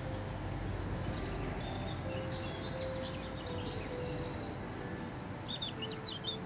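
Small songbird calling over a steady outdoor rumble: a quick falling run of high chirps about two seconds in, then a few short chirps near the end.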